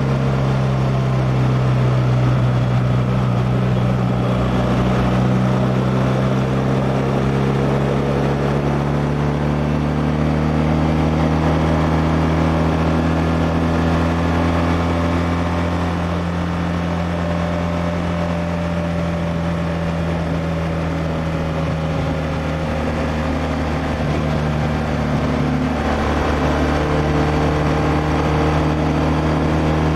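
BMW R1200R's liquid-cooled boxer twin engine running steadily while the motorcycle cruises. Its note drifts gently up and down with no sharp revving.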